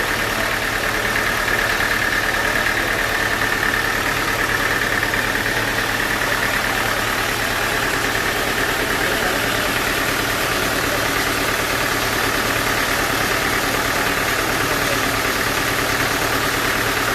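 Sawmill machinery running steadily: a continuous engine-like hum with a steady high whine that sinks slightly in pitch partway through.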